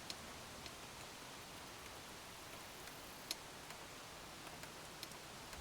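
A few faint, sparse clicks from small parts being handled, the sharpest about three seconds in, over a steady low hiss.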